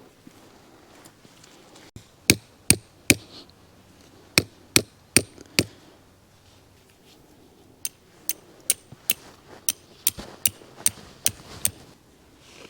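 Hammer blows driving stakes into the ground, each strike sharp with a bright metallic ring. They come in three groups: three blows, then four, then a steady run of about ten at two to three a second.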